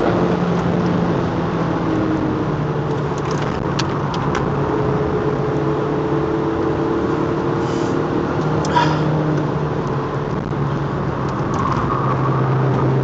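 Audi TT 1.8 quattro's turbocharged four-cylinder engine running hard at speed, heard from inside the cabin over loud tyre and wind noise. Its note climbs slowly and drops back in steps a few times.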